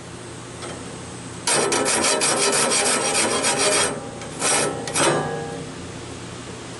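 Air-powered sharpening tool grinding a tooth of a Wood-Mizer LT15 sawmill band blade: one rough grind of about two and a half seconds, then two short touches of the cutter against the tooth.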